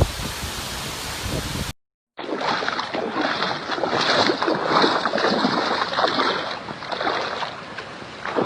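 Hurricane wind and water noise, a dense, loud rush buffeting the microphone. It breaks off briefly about two seconds in, then comes back gusting and surging.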